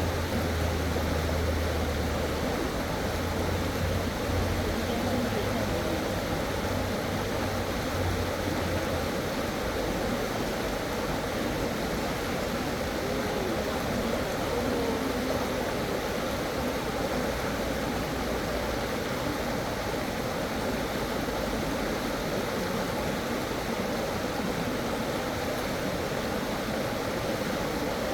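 Creek water rushing steadily over rocks in a fast stream, with a low hum underneath during the first several seconds.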